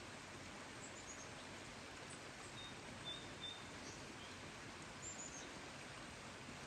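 Steady rain hiss with faint, high bird chirps: a quick run of falling notes about a second in and again about five seconds in, and a few short thin notes around three seconds.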